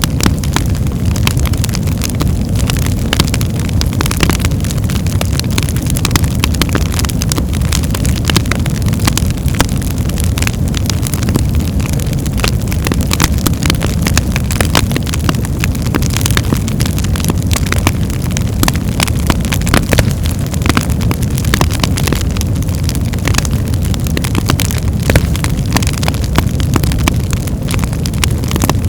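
Birch-log fire in a fireplace crackling: a steady low rumble of flames under frequent, scattered sharp pops.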